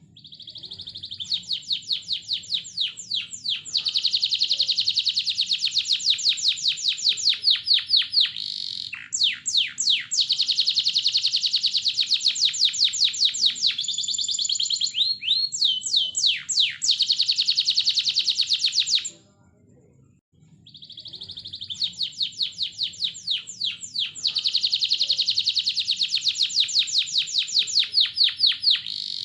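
Domestic canary singing a long, high-pitched song of fast trills and rolls with some swooping downward notes; about two-thirds through it breaks off for about a second and the same song starts over. Canary song used as a lure to set other canaries singing.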